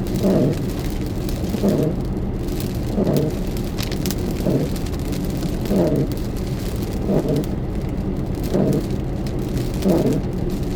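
Windshield wipers sweeping back and forth about every second and a half, about eight strokes, over steady rain and road noise inside a moving car.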